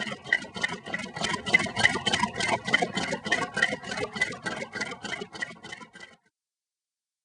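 Small Stirling engine running, its moving parts clicking and rattling in an even rhythm of about five beats a second, cutting off abruptly about six seconds in.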